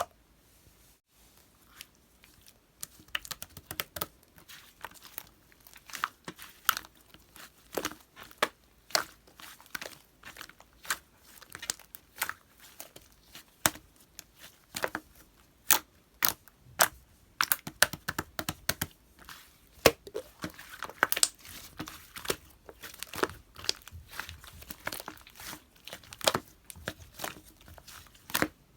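Slime being handled and squished by hand, making irregular sticky clicks and small snapping pops, several a second, starting about three seconds in.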